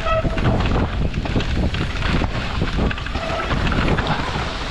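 Mountain bike riding down a wet, muddy trail: wind buffeting the microphone over a constant rattle of short knocks and thuds from the bike and tyres over rough ground.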